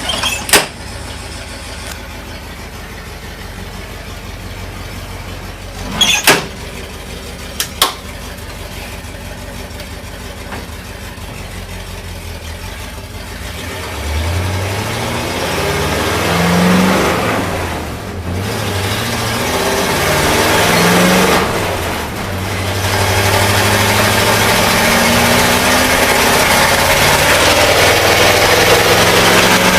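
International Harvester SV304 V8 gasoline engine idling, with a few sharp clicks, then pulling away. It revs up in first gear, drops off for a gear change, revs up again, drops off for another change, and runs under load at a steadily climbing pitch.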